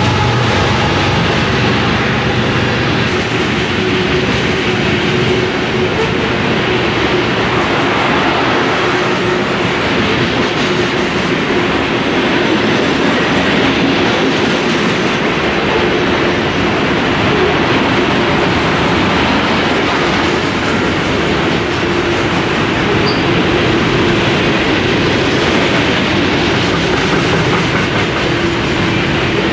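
Freight train cars rolling past close by: a steady, loud rush of steel wheels on rail, with a faint pitched whine fading out in the first second.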